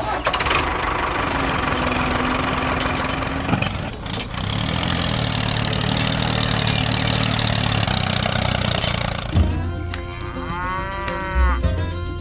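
Two long, rough, loud elephant calls, the second lower and longer, followed near the end by a short snatch of melodic music.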